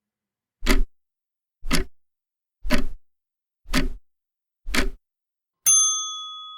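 Countdown timer sound effect: five ticks about a second apart, then a single bell ding that rings on and fades, marking that the time to answer is up.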